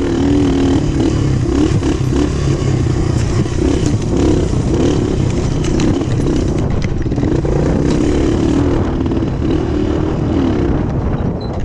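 Dirt bike engine running under way, its pitch rising and falling over and over as the throttle is worked, over a steady low rumble.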